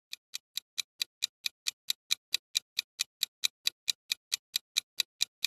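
Countdown ticking of a clock sound effect, about four to five even ticks a second, fading in and growing louder over the first couple of seconds before holding steady: the timer for guessing the answer.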